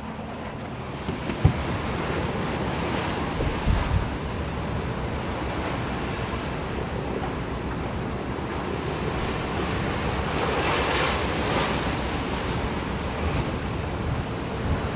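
Heavy seas washing and breaking against a ship, with wind buffeting the microphone. A couple of low thumps in the first few seconds, and a louder surge of rushing water about ten seconds in.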